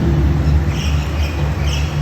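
Short bird chirps, twice about a second apart, over a steady low rumble of ambient noise.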